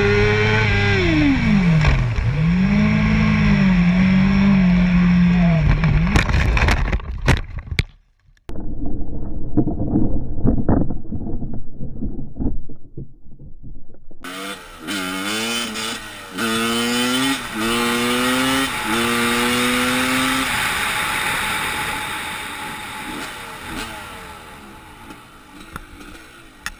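Motorcycle engine slowing with falling, wavering revs, then a burst of sharp knocks and muffled thuds. Later a motorcycle accelerates hard through about five gears, the pitch rising and dropping at each shift, then fades into wind-like rushing noise.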